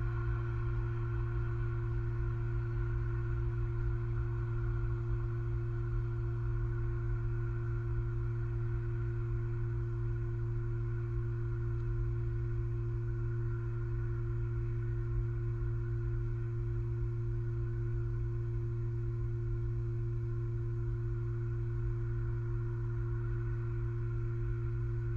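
Steady, unchanging low electrical hum with several constant higher tones above it.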